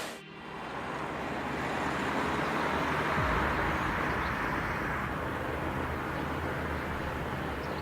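Heavy haulage truck engine running steadily under road and traffic noise. A louder sound cuts off abruptly at the start, then the rumble builds back and holds.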